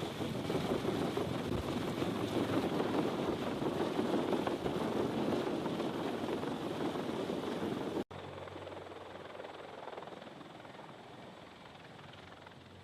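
CH-53K King Stallion helicopter running, a steady rush of rotor and engine noise. About eight seconds in the sound cuts off abruptly and comes back quieter and more distant.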